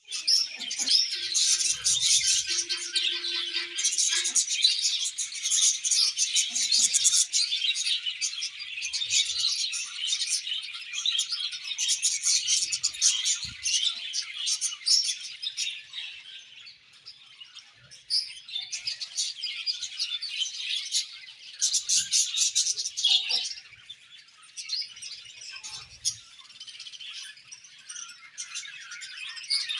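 Many budgerigars (budgies) chirping and chattering at once, a dense high-pitched twittering. It is thickest through the first half, thins about halfway through, then comes back in bursts.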